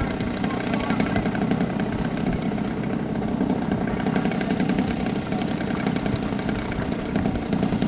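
Radio-controlled model airplane's engine running steadily with a fast buzzing drone.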